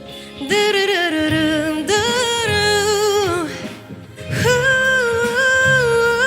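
A high female voice sings a wordless 'doo doo' melody in three phrases, the last held on long notes, over a soft low accompaniment.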